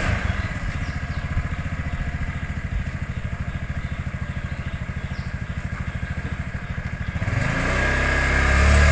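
Small motorcycle engine idling with an even pulse, then revving up and growing louder near the end.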